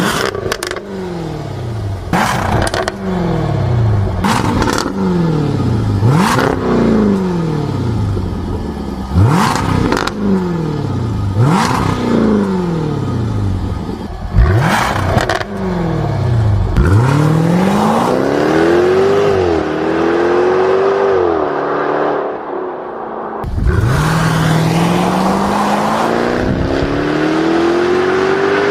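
Jaguar F-Type R's supercharged 5.0-litre V8 revved in a series of quick blips, each falling away with exhaust crackles and pops. Then comes a longer rev held high, a short drop, and a long steady climb in revs to the end.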